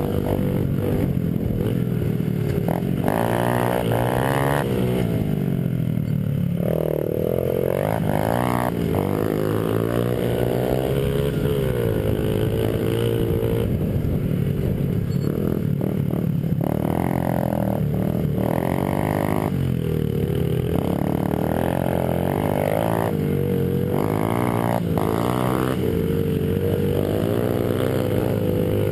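Small Honda 50cc four-stroke pit bike engines (XR50 and CRF50) racing, their pitch repeatedly rising and falling as the riders open and close the throttle and shift gears.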